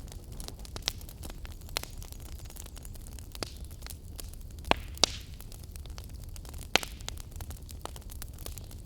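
Fire burning in a fireplace, crackling with irregular sharp pops over a steady low rumble; the loudest pops come a little past the middle, two close together and another about two seconds later.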